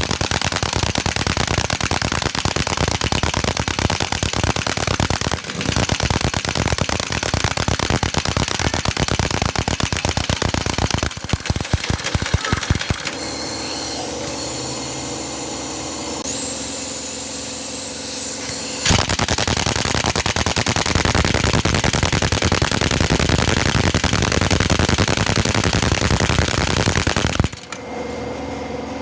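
Pneumatic impact tool hammering in long rapid bursts. The hammering eases for a steadier running sound in the middle, then stops abruptly near the end.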